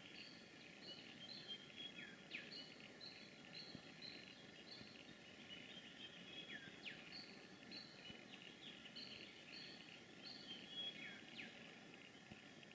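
Faint birds calling: a short high note repeated about twice a second, and every few seconds a pair of quick falling whistles, over a soft background hiss.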